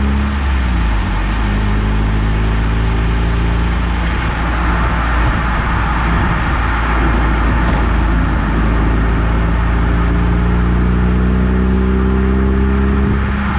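Eunos Roadster's inline-four engine pulling on the road, its pitch slowly rising under acceleration over steady road and tyre noise. The pitch breaks off near the start and drops again at the very end, as at gear changes.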